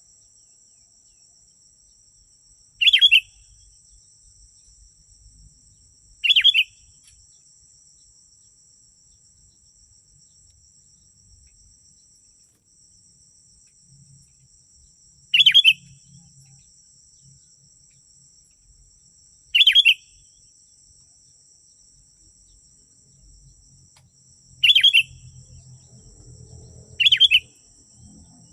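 Sooty-headed bulbul giving short, loud calls, six of them a few seconds apart, over a steady high-pitched insect trill.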